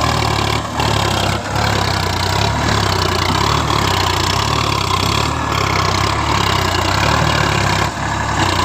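Sonalika DI 47 RX tractor's diesel engine running steadily just after starting, a constant low, pulsing rumble with two brief dips in the first couple of seconds.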